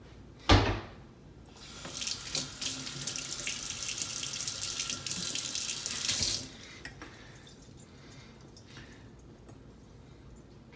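A sharp thump, then a sink tap runs for about four seconds and shuts off abruptly. The water is diluting the slurry on a blue Escher hone.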